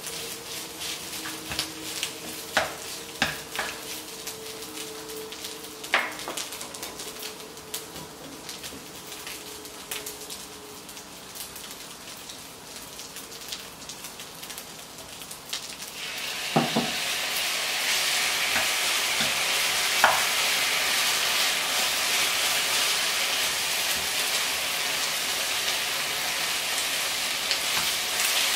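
Rice stir-frying in a nonstick wok: a light sizzle with the spatula tapping and scraping the pan, which turns into a much louder, steady sizzle a little past halfway.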